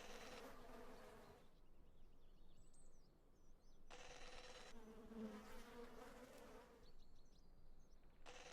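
A buzzing insect, heard in three passes lasting one to three seconds each, with a wavering hum; faint high chirps in the gaps between passes.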